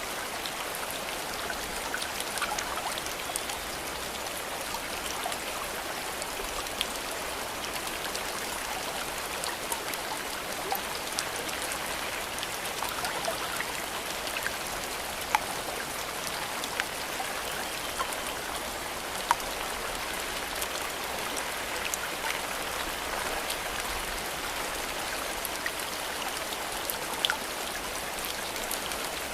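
Steady rain: an even hiss of falling rain with individual drops ticking close by, a few of them louder and sharper at scattered moments.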